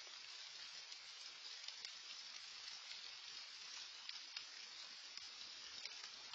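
Light rain falling: a steady soft hiss with faint scattered ticks of drops, heard through an outdoor security camera's microphone.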